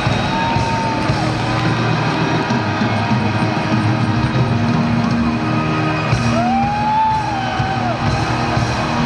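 Live rock band playing together with a symphony orchestra: dense, loud, sustained music with held notes and a few sliding pitches, and crowd yells mixed in.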